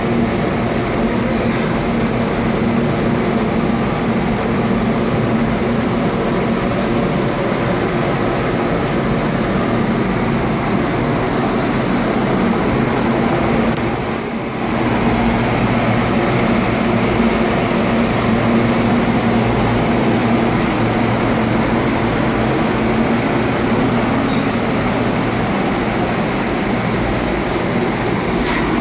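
Boiler-room machinery running: a loud, steady drone with a constant low hum, dipping briefly about halfway through.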